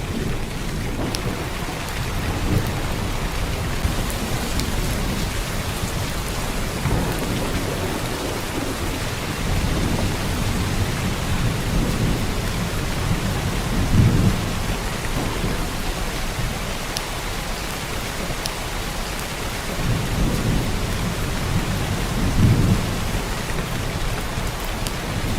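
Heavy downpour of rain, a steady even hiss. A few low rumbles swell and fade beneath it, the strongest about halfway through and another near the end.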